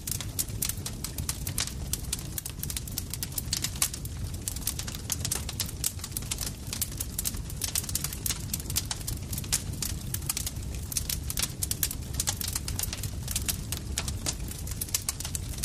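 Campfire crackling: a dense, irregular stream of sharp pops and snaps over a steady low rumble of the burning wood.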